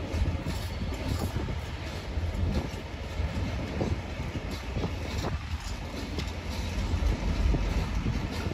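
Freight train wagons rolling along the rails: a steady low rumble with irregular wheel clacks and knocks as the wagons pass.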